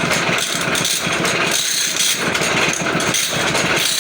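Automatic band saw blade sharpening machine running, with a steady mechanical clatter as it works through its cycle.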